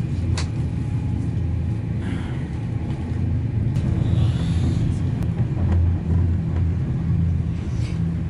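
Passenger train running at speed, heard from inside the carriage: a steady low rumble of wheels and running gear, with a few faint ticks.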